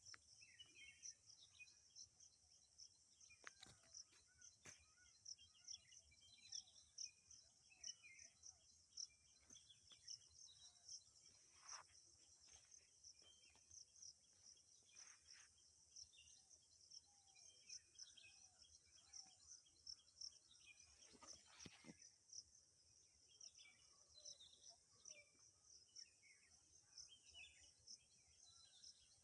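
Faint morning birdsong: many small, scattered chirps and tweets from several birds. Behind them runs a steady high, fast-pulsing trill, and there are a few soft clicks.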